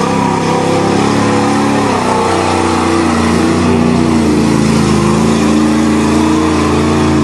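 1988 Chevrolet pickup's 305 small-block V8 running hard in mud. Revs drop about a second in, then hold fairly steady with small rises and falls.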